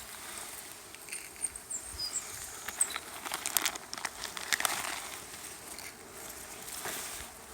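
Honeybees buzzing around a hive entrance, mixed with scattered crackling and rustling. A few faint, high chirps come in the first few seconds.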